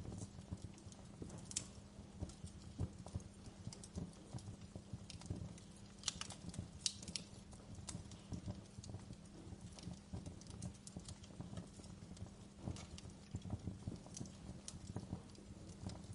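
Crackling fireplace: a steady low rumble with irregular snaps and pops, a few sharper cracks about a second and a half in and again around six to seven seconds.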